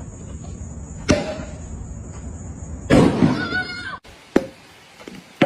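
A sharp knock about a second in, then a loud bang with a person's shout over it, cut off abruptly; a couple of sharp clicks follow.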